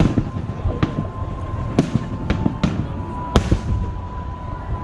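Fireworks display: sharp aerial shell bursts, about six bangs spaced a half second to a second apart, over a continuous low rumble of further explosions.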